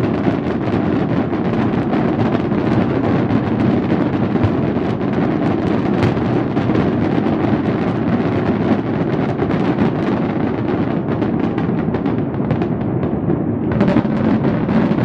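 New Year fireworks barrage: a dense, continuous run of booms and cracks merging into a rolling rumble, with wind buffeting the microphone. The bangs thin out briefly near the end, then pick up again.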